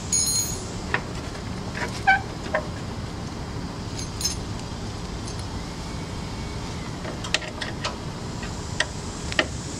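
Scattered light clicks and small metallic clinks of hand tools, screws and plastic parts being handled, over a steady low background rumble.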